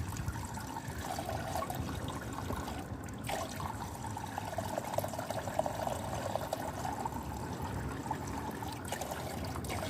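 Engine oil pouring and trickling steadily out of a Suzuki GS850 engine casing into a basin below.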